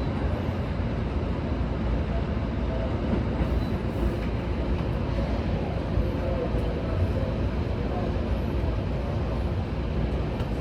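Seibu 20000 series electric train, a steady train rumble with no distinct events.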